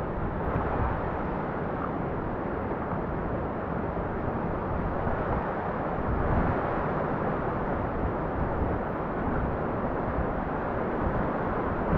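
Steady rushing of river water, with wind buffeting the microphone in uneven low rumbles.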